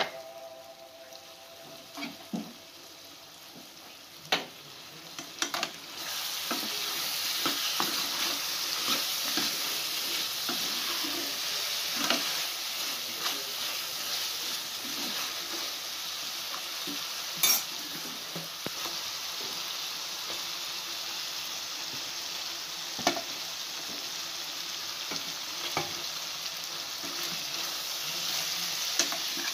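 Chicken curry sizzling in an aluminium pot while a metal ladle stirs it, with sharp knocks and scrapes of the ladle against the pot. The sizzle is faint at first and grows louder and steady about six seconds in.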